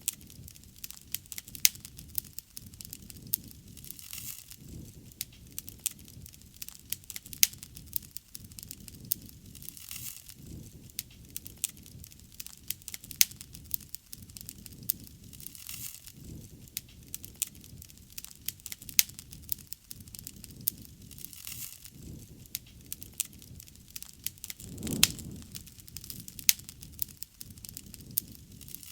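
Wood fire burning, with a steady low rush of flame under frequent sharp crackles and pops of burning wood. A brief louder low swell of flame comes near the end.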